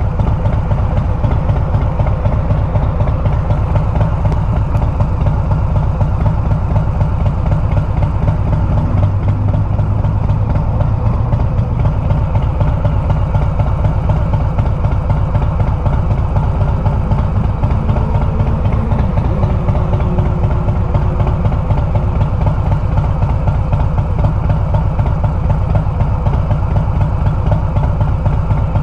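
Harley-Davidson Milwaukee-Eight 114 V-twin running through a Bassani exhaust at a steady pace while riding. Its dense low exhaust pulsing holds even, with no revving.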